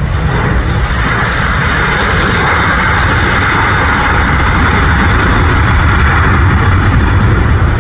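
Boeing 747-400 freighter's four turbofan engines during landing: a steady, loud jet roar, with a deep rumble that builds toward the end.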